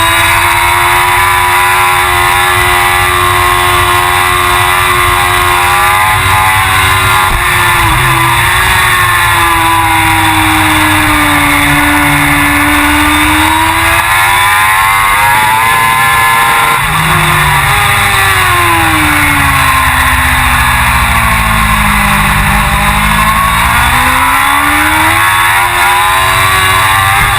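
Suzuki GSX-R1000 superbike's inline-four engine at racing speed, its pitch sinking under braking and climbing again under acceleration through the corners, with quick jumps at the gear changes. The deepest dips come about twelve and twenty-two seconds in.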